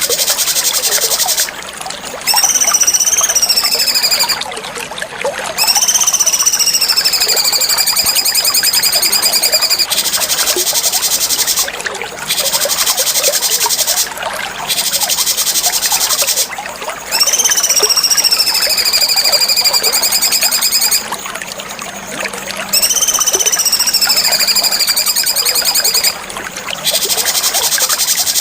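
Cucak cungkok song: bursts of fast, high, buzzing chatter a few seconds long alternate with long clear whistles that slide down and then hold steady, in a repeating pattern.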